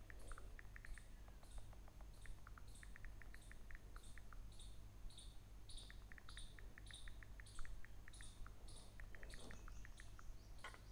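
Faint bird chirping: a short, high chirp repeated about twice a second, with quick runs of small ticks in between, over a low steady electrical hum.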